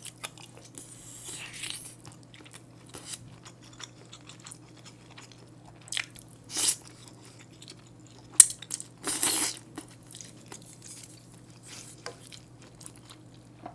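Close-miked chewing of a spoonful of egg, with a few short slurps and one sharp click about eight seconds in, over a faint steady low hum.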